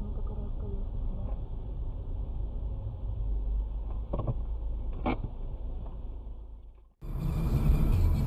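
Dashcam audio of a moving car: steady low engine and road rumble with two short knocks about four and five seconds in, fading out near the end. It then cuts abruptly to a louder recording of vehicle rumble.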